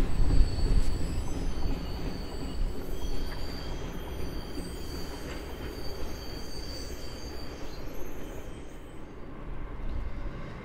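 Freight train rolling past at low speed, a steady low rumble from the wagons, with a thin, high-pitched wheel squeal held over it; the whole sound slowly fades.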